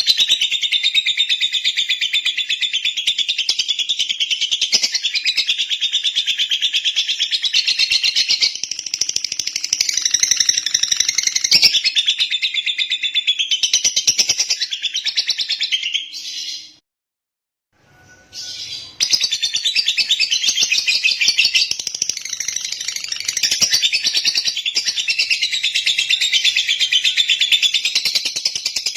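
Lovebird chattering: a dense, unbroken stream of rapid, high-pitched chirps and trills. It drops out to silence for about two seconds just past the middle, then resumes.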